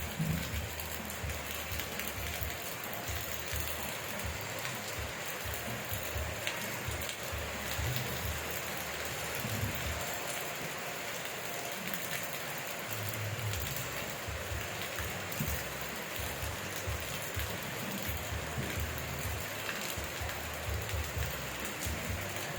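Steady rain falling, an even hiss with scattered individual drop ticks, and low rumbles coming and going underneath.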